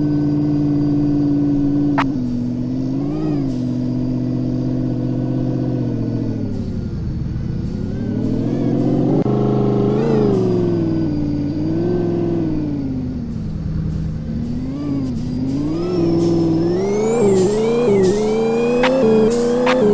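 Truck engine running on the road, its revs swelling and easing every couple of seconds, then climbing steadily over the last few seconds as it accelerates. A single sharp click comes about two seconds in.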